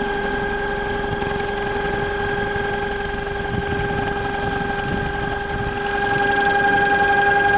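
36-slot, 48-pole brushless electric motor running steadily on a 25 V supply at about 660 rpm. It gives a steady whine in a few even tones over a low rumble, and it grows a little louder near the end.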